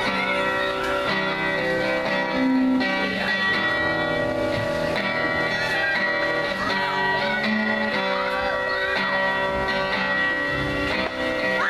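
Amplified electric guitars playing sustained, ringing notes and chords with some bent notes, as a band sound-checks and jams.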